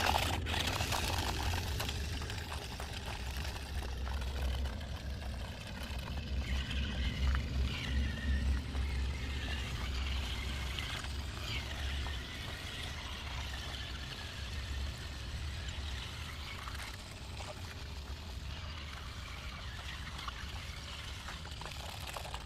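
Water rushing and pouring over a low engine rumble as a pickup truck wades through deep water. The rumble is strongest in the first half.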